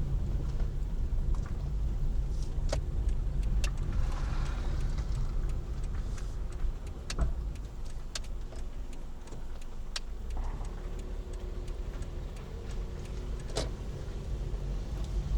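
Car driving, heard from inside the cabin: a steady low road and engine rumble with scattered sharp clicks and knocks.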